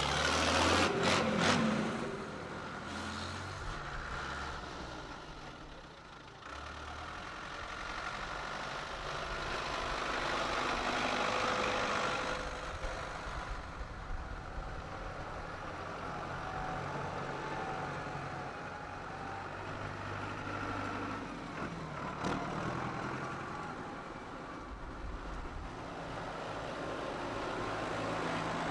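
Tractor engines running, the sound swelling and fading as the tractors move along, with a few sharp knocks right at the start.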